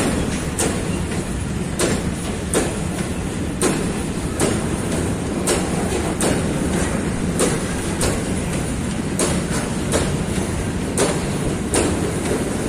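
A train passing at steady speed, its wheels clicking over rail joints about once a second, often in pairs, over a continuous rolling rumble.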